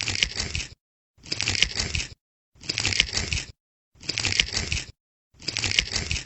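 A short burst of crackling noise, repeated five times about every one and a half seconds, each burst the same and cut off to complete silence between: a looped sound effect.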